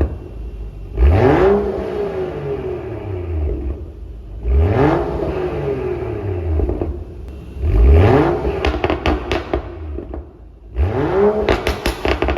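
A BMW N55 3.0-litre turbocharged straight-six in a 2014 F30 335i is revved four times through its stock M Performance muffler with resonator delete. Each rev rises and falls back to idle. Crackling burbles come on the overrun after the last two revs.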